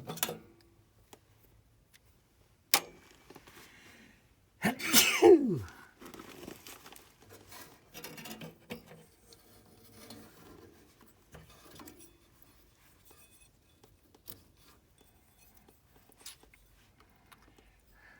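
Hand-tool work on a gas furnace while its broken hot surface igniter is being removed: a sharp click about three seconds in, then scattered light clicks and rattles. The loudest sound is a person's sudden vocal burst about five seconds in, lasting about a second and falling steeply in pitch.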